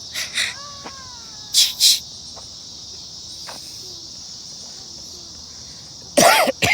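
A steady, high, buzzing chorus of insects. Short, loud, noisy bursts cut through it in pairs: one just after the start, another a little before two seconds in, and the loudest near the end.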